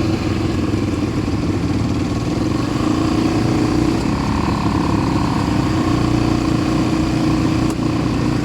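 Small ATV engine running steadily while being ridden.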